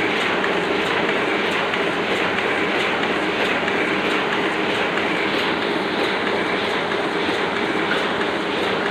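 Oliver offset printing press running normally, a steady, dense mechanical clatter with a faint repeating tick.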